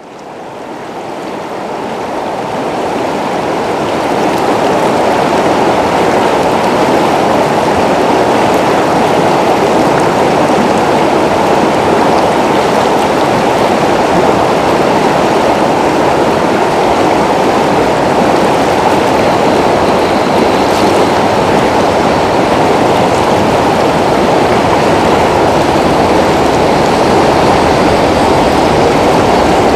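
Rushing water of a stream or waterfall, a steady dense rush that fades in over the first few seconds and then holds.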